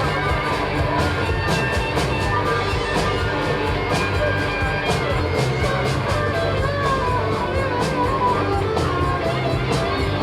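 Live rock band playing a loud, dense instrumental jam: electric guitars, bass, organ and drums. Steady drum and cymbal hits keep the beat, with no singing.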